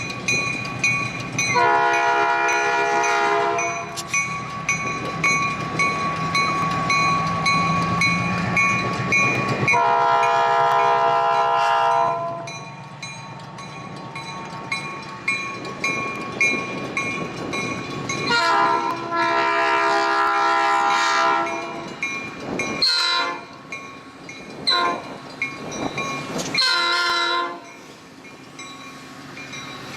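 A passing commuter train's horn sounds a series of blasts: three long ones, then a short one, then a final blast. Under the first blasts there is the low rumble and clatter of the train on the rails.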